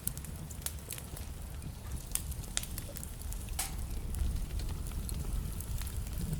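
Wood fire crackling in a fireplace: irregular sharp pops and crackles over a low, steady rumble of the burning logs, with one stronger pop a little past halfway.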